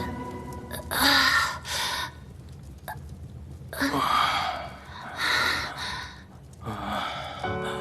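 A person's heavy breaths, sighs or gasps, about four of them with pauses between. Music starts near the end.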